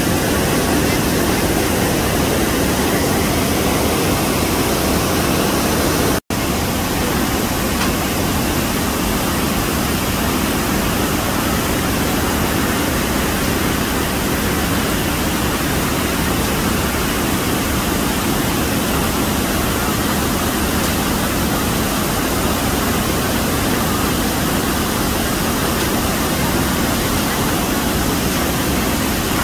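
Steady rushing roar of the Iguazu Falls, a dense wash of falling water, broken by a momentary cut about six seconds in.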